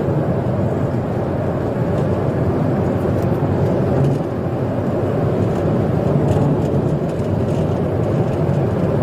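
Steady engine and road noise of a police patrol car driving fast in pursuit.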